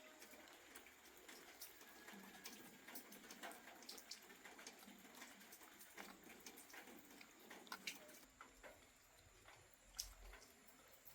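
Near silence with faint, scattered light ticks and clicks, one sharper click about ten seconds in.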